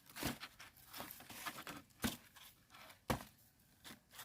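Irregular sharp crackles and tearing sounds, about six over four seconds, of something being torn and crinkled by hand.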